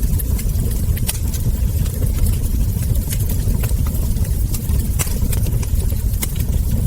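Wood fire crackling, with irregular sharp pops over a steady low rumble; one pop about five seconds in is louder than the rest.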